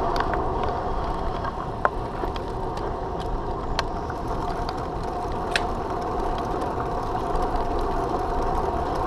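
Bicycle riding along a street: steady road and wind noise with scattered clicks and rattles from the bike.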